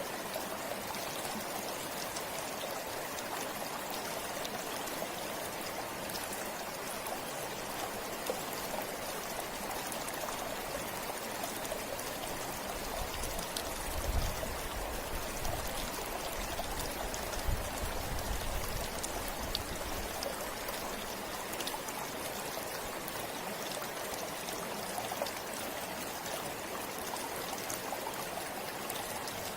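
River water flowing in a steady, even rush. Around the middle, a few low rumbles come and go for several seconds.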